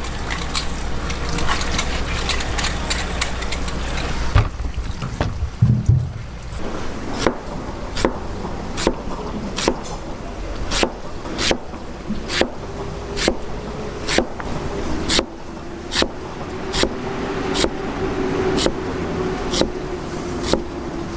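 A steady background noise, then from about four seconds in a run of sharp, evenly spaced knocks, about one and a half a second.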